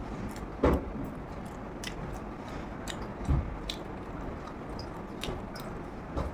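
Close-miked eating sounds: chewing and biting a meal of rice and fried vegetables, with scattered wet clicks, a louder bite under a second in and a dull low thud a little after three seconds.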